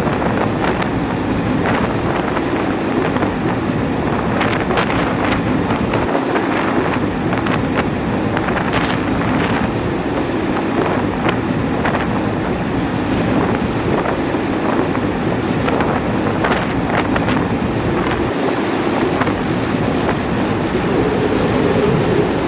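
Blizzard wind blowing hard across the microphone: a continuous loud rush with many short, sharp crackles from gusts.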